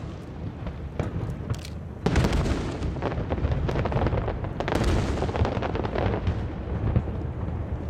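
Aerial fireworks display: aerial shells bursting in quick succession over a continuous rumbling of explosions, growing much denser and louder about two seconds in.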